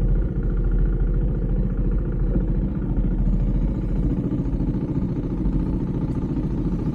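Husqvarna Svartpilen 401's single-cylinder engine running steadily at low revs, with a fast even pulse from its firing.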